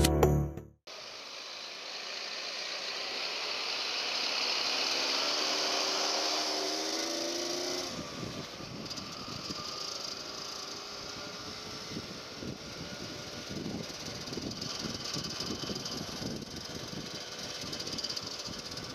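Yamaha RXZ 135's two-stroke single-cylinder engine running on the move, with a steady hiss of wind and road noise. Its note rises steadily for several seconds, drops about eight seconds in as the throttle eases, then runs unevenly at lower revs.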